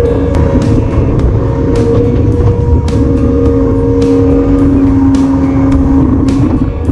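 A vehicle engine running steadily, with irregular sharp taps over it. The sound cuts off suddenly near the end.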